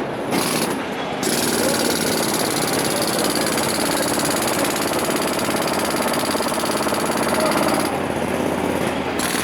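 Jackhammer hammering rapidly and continuously, with brief pauses near the start and near the end.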